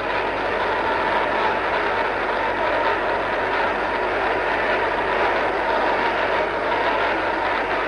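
Large congregation praying aloud all at once, many voices blending into one dense, steady wash of sound.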